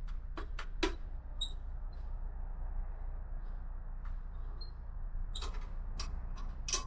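Sharp clicks and small high squeaks of motorcycle parts being handled and worked loose during battery removal. A few come in the first second and a denser run near the end, the loudest just before it stops, over a steady low hum.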